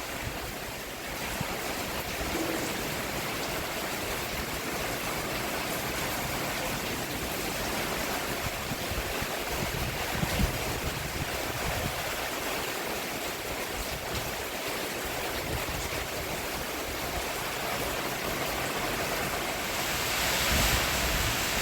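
Steady rain falling on a roof, an even hiss with scattered low thuds, growing a little louder near the end.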